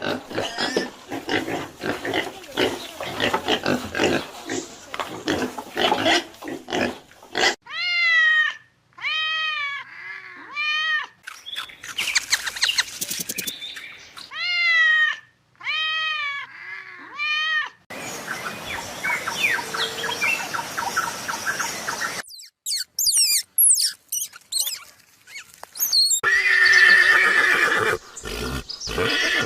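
A run of different animal calls, one kind after another: a dense, noisy stretch for the first seven seconds or so, then two sets of three repeated arching calls, a noisy stretch, high thin whistling glides, and another call near the end.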